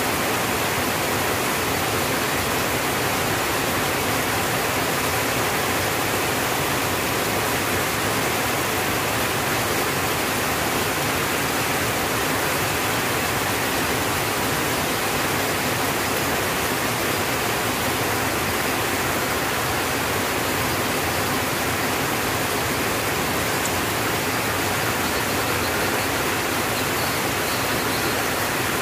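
Rain falling steadily on a tin roof, a dense even hiss with no breaks or separate drops standing out.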